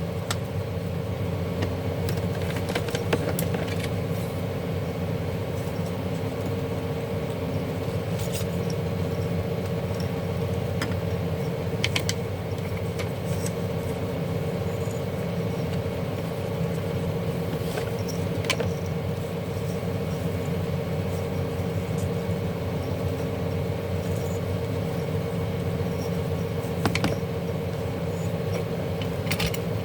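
A steady mechanical hum with a constant tone runs throughout. Now and then there is a sharp click or a light clatter, about half a dozen times, as small parts of the opened garment steamer are handled.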